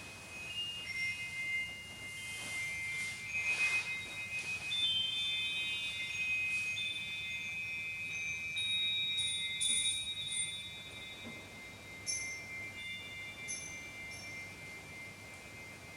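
Chimes ringing softly, with high clear tones struck every second or so and left to ring on over one another. They fade slowly near the end.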